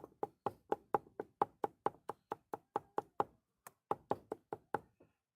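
Rapid, even knocking, about four strokes a second, with a brief pause a little past halfway. The rhythm fits food being chopped at a street-food stall.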